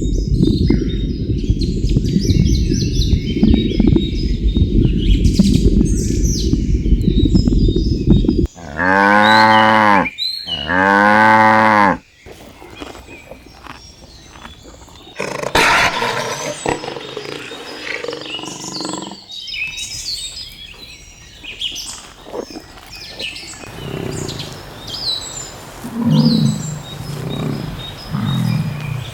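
Cow mooing: two long moos back to back, after a stretch of loud low rumbling noise with bird chirps above it; quieter scattered animal calls follow.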